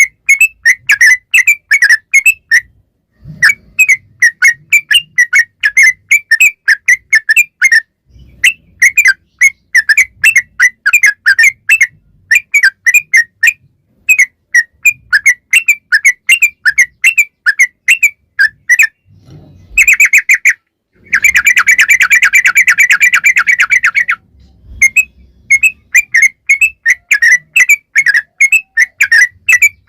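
Yellow-vented bulbul (trucukan) singing loudly in repeated bursts of quick, bubbly chirping notes, a few seconds each with short pauses between. Between about 21 and 24 seconds in, the notes run together into a long, fast unbroken trill.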